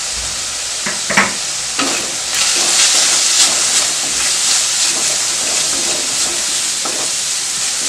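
Chopped onions, curry leaves and green chillies sizzling in hot oil in a stainless steel pan. A wooden spatula stirs and scrapes the pan, and the sizzle grows louder from about two seconds in as the mix is turned over.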